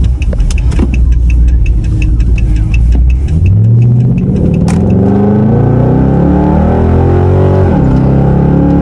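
Dodge Charger R/T's 5.7 Hemi V8 heard from inside the cabin, its exhaust made loud by the mid mufflers being cut out (resonator also removed, cats and rear mufflers kept). It cruises with a low rumble, then accelerates about three and a half seconds in, the engine note climbing, dropping at an upshift near the end and climbing again.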